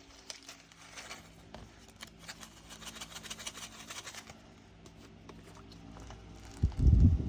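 Small resin diamond-painting drills trickling out of a bag into a plastic container, a faint patter of many tiny clicks. Near the end there is a louder rustle and bump of the bag being handled.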